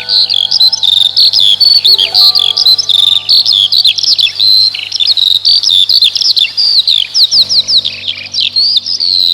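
Many small birds chirping and singing at once: a dense run of quick, overlapping high calls and trills. Steady held tones sit underneath and change twice.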